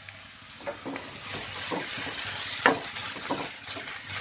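Grated bottle gourd sizzling in hot ghee while a metal spatula stirs it around the pan, with a steady frying hiss and several sharp knocks and scrapes of the spatula against the pan, the loudest about two and a half seconds in.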